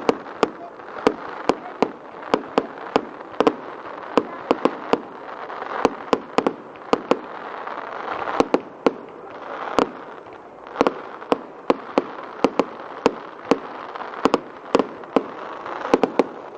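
Fireworks going off: an irregular run of sharp bangs, two or three a second, over a steady hiss.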